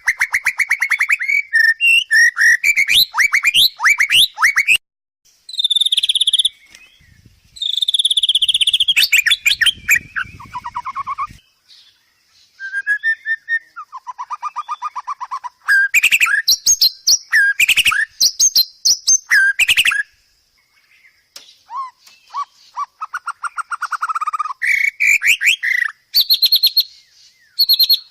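White-rumped shama singing a long, varied song: fast chattering trills and rattles mixed with clear whistled notes, in phrases broken by short pauses.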